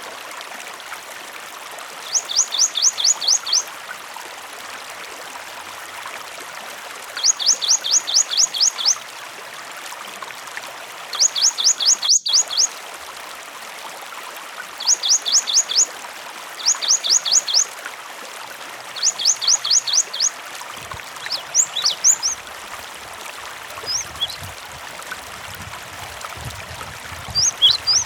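Gelatik batu (cinereous tit) calling in bursts of about seven rapid, high, falling notes, repeated every few seconds, over a steady running-water stream. From about two-thirds of the way through, the bursts give way to scattered single chirps.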